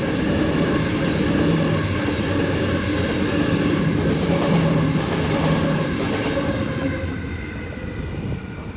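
Sydney Trains A set (Waratah) electric double-deck train passing the platform, its wheels and motors giving a steady rumble with a hum of several steady tones. The sound dies away over the last two or three seconds.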